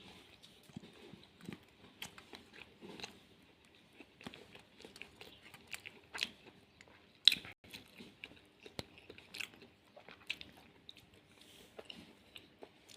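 A person quietly eating lunch, chewing and crunching a meal of flattened-rice upma and fried capsicum and potato, with many small irregular mouth clicks. One sharper click comes about seven seconds in.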